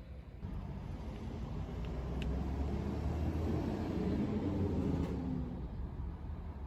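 A vehicle driving past: a low engine and road rumble that swells for a few seconds and then fades away.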